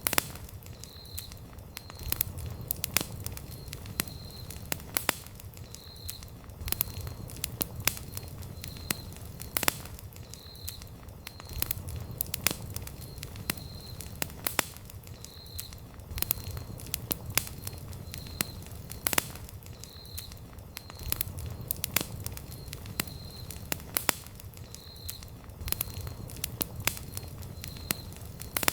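Wood campfire burning, with sharp irregular crackles and pops over a low, steady rumble of the flames. A faint high chirp repeats about once a second throughout.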